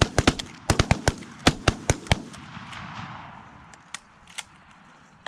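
A volley of shotgun fire from several hunters shooting at geese together: about a dozen shots in quick, overlapping succession over the first two seconds, then two fainter shots about four seconds in.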